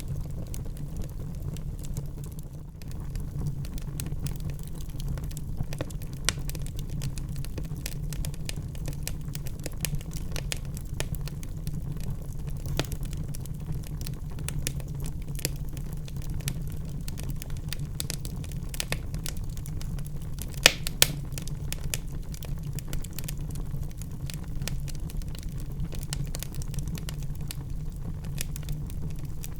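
Wood fire crackling in a fireplace: a steady low rumble under many scattered small crackles, with two sharper pops in quick succession about two-thirds of the way through.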